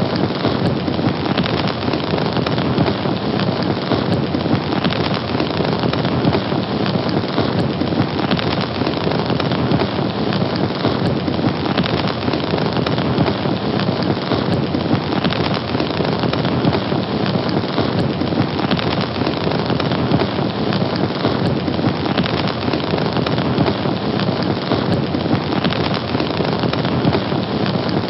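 Fire burning with a steady, dense rushing noise that keeps an even level.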